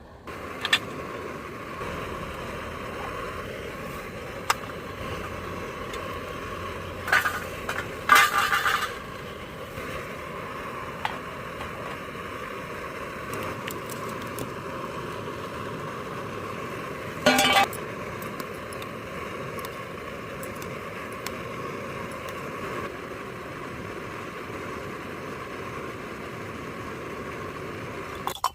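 Steady hiss with a faint even tone, broken by a few sharp clinks of dishes and utensils, the loudest cluster about a third of the way through and another past the middle.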